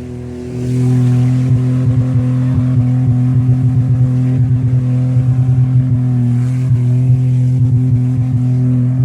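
Car engine held at high revs at a steady pitch, stuttering with rapid, irregular cuts, typical of an engine bouncing off its rev limiter.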